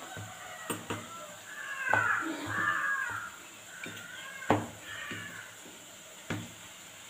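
A bird cawing, a cluster of harsh calls about two to three seconds in and a few fainter ones a little later, with several sharp knocks in between.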